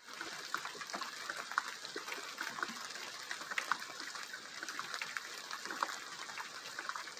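Rain falling: a steady hiss with many separate drops ticking irregularly.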